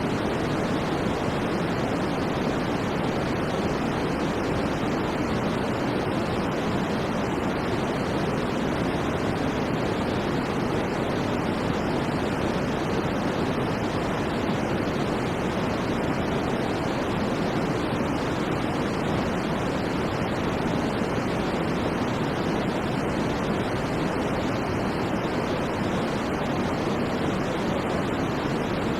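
Steady white noise: an unbroken, even hiss that never changes, fuller in the low and middle range than at the top.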